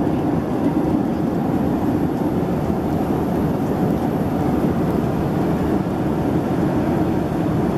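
Steady cabin noise inside a Boeing 767-300ER airliner: an even, unbroken rush of engine and airflow noise.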